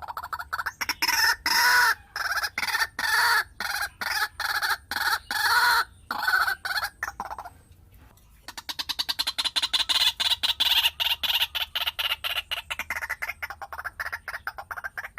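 Chicken calling: a crowing call broken into many short pieces. After a brief pause, a fast run of short clucking pulses follows from about eight and a half seconds.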